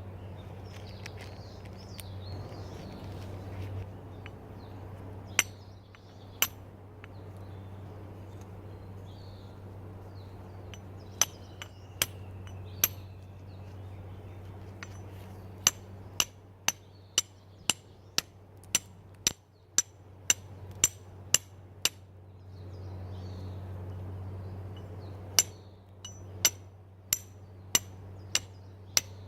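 Flint struck against a steel fire striker in sharp metallic clicks: a few single strikes, then quick runs of about two strikes a second, trying to throw sparks to light a fire.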